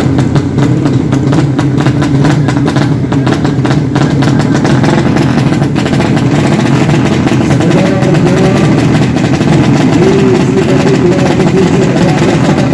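Racing motorcycle engines running at a drag strip, a loud, dense, distorted engine din with an occasional rise in pitch.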